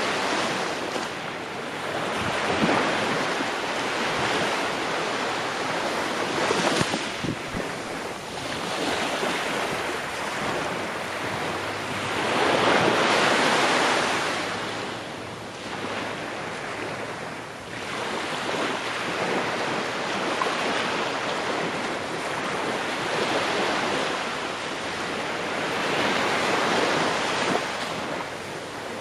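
Ocean waves breaking and washing on the shore, each surge swelling and ebbing every few seconds, with wind.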